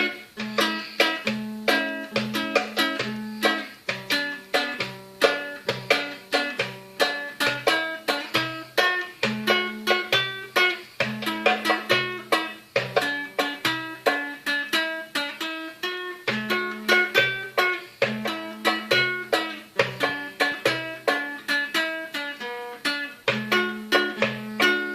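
Guitar played as an improvisation: a quick run of plucked melody notes over a repeating low bass note.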